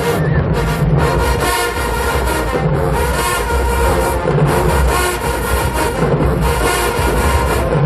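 HBCU marching band playing loud, with sustained brass chords over heavy low brass and drums.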